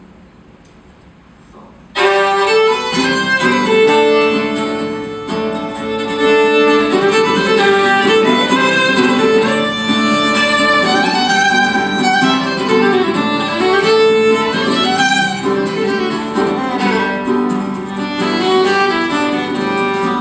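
Instrumental break of a live folk band: a violin plays the melody over strummed guitar. It comes in abruptly about two seconds in, after a short lull.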